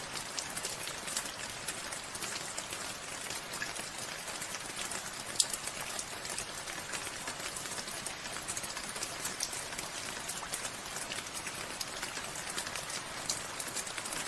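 Steady rain falling, with many separate drops ticking close by over the even hiss of the downpour. One drop lands louder than the rest about five seconds in.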